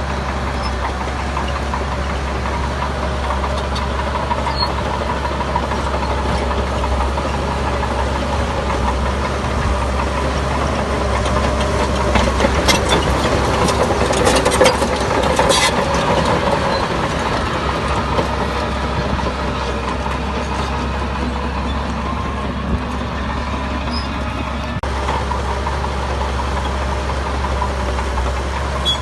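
Heavy diesel engine of earthmoving machinery running steadily, with a louder stretch of sharp metallic knocks about halfway through.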